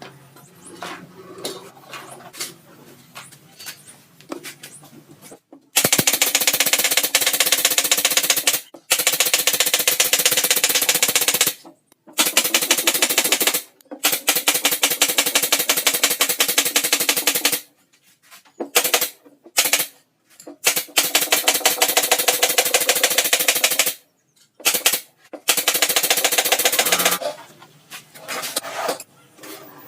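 Loudspeaker, most likely the OD15 subwoofer cabinet, playing loud with a fast, even rattle of pulses. It comes in bursts of a few seconds that start about six seconds in and break off and restart abruptly several times.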